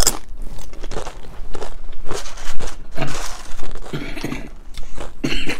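Close-up eating sounds: tortilla chips being bitten and chewed, a run of irregular crisp crunches.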